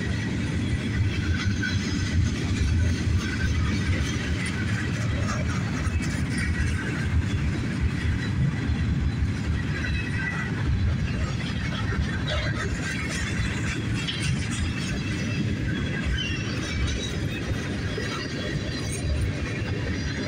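Freight train cars rolling past at steady speed: a continuous rumble of steel wheels on the rails with scattered clatter and faint squeaks.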